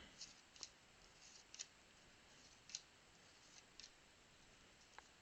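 Faint, scattered light clicks and swishes of trading cards being slid and flipped through by hand, about half a dozen soft sounds spread over several seconds.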